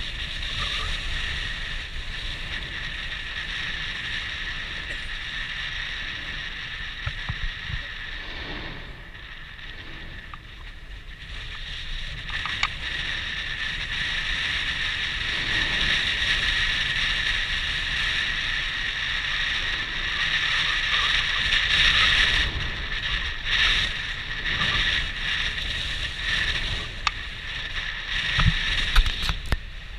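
Steady rushing wind noise on the microphone at the rim of Mount Yasur volcano, which the uploader puts down to the crater's heat. It grows louder past the middle. A few sharp clicks come from the cord on the camera's handle.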